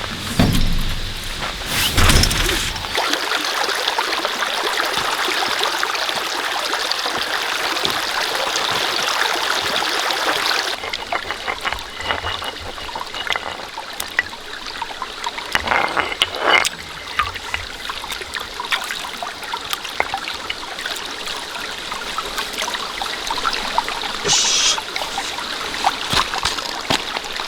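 Steady rain falling, an even hiss of drops, with a couple of knocks. The sound of the rain changes abruptly about ten seconds in.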